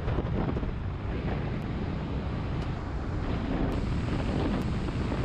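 Wind buffeting the microphone on a moving motorcycle: a steady, dense rumble heaviest in the low end.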